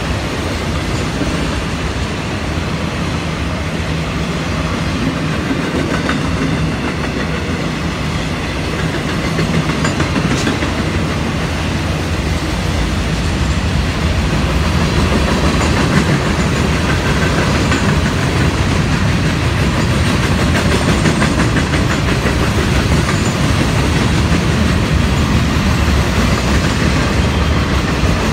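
Freight train cars rolling past close by: a steady rumble of steel wheels on the rails with a rhythmic clickety-clack, growing a little louder about halfway through.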